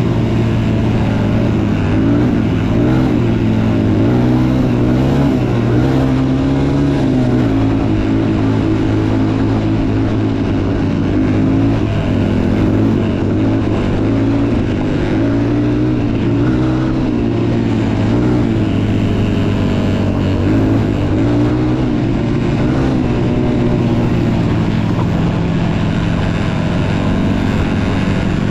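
Motocross bike engine running continuously, its pitch rising and falling as the throttle is worked.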